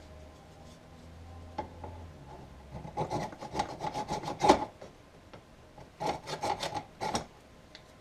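A screwdriver used as a scraper, rasping caked dirt off a part of a Samsung upright vacuum cleaner in two runs of quick back-and-forth strokes.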